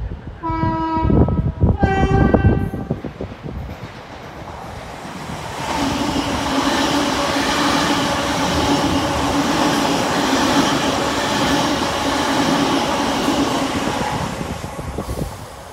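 A train horn sounds two short notes, the second higher than the first. Then an electric passenger train passes close at speed: a loud rushing noise with a steady hum that builds, holds for about nine seconds and fades near the end.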